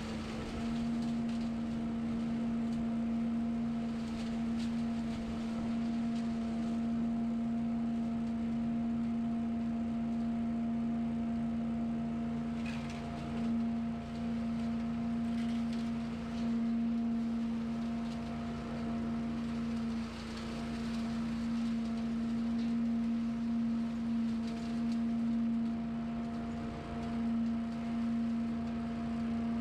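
Small engine of a piece of lawn equipment running steadily at constant speed, holding one even pitch with small dips in loudness now and then.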